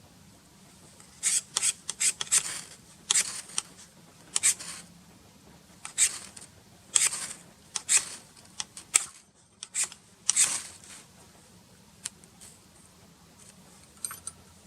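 Ferro rod being struck: a dozen or so short, high rasping scrapes in irregular bunches, throwing sparks onto moss that is too wet to catch.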